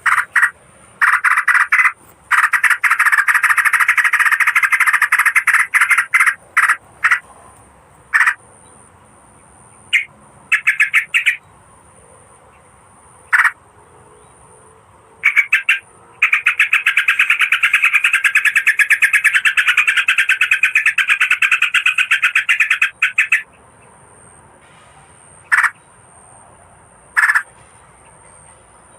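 Lure recording of merbah kapur bulbul calls: long runs of rapid chattering notes, with short single calls and pauses between them. A thin steady high whine runs underneath.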